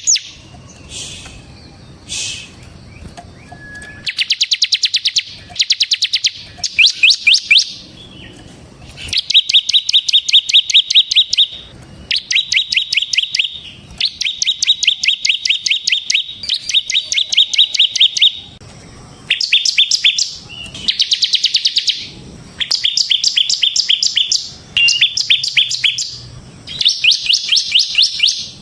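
Bar-winged prinia (ciblek) singing in loud, fast trills of sharp repeated notes, the rapid 'ngebren' style. The song comes in phrases of one to three seconds with short pauses between them, about a dozen in all.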